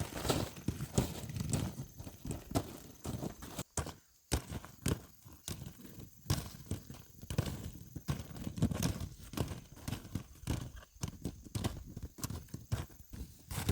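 Horse walking, its hooves clip-clopping in an irregular series of knocks.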